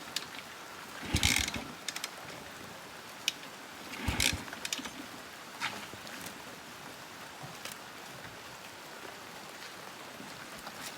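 Steady hiss of rain-like noise, with two louder knocks about a second and about four seconds in, and a few faint clicks.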